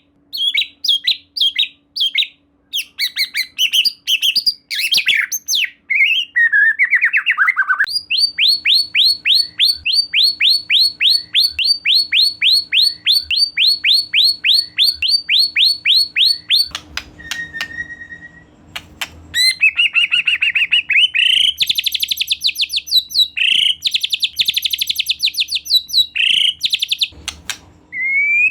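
White-rumped shama singing loudly in full song. Varied whistled phrases give way to a long run of identical, rapid downward-sweeping notes, about five a second, lasting some eight seconds. After a short lull come dense, fast chattering phrases.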